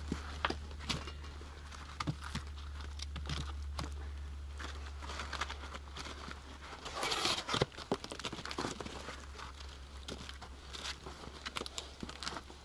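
Campfire crackling with scattered sharp pops, with a louder crunching rustle about seven seconds in.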